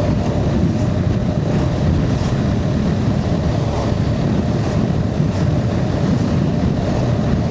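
Steady wind rush buffeting the microphone on a moving motorcycle, with a faint steady hum underneath.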